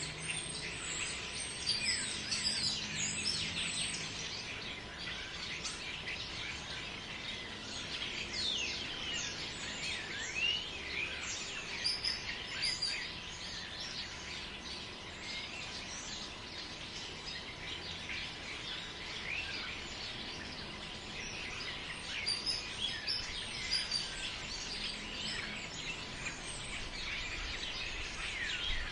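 Many small birds chirping and calling in a forest, short quick twittering notes overlapping throughout, over a steady background rush of wind in the trees.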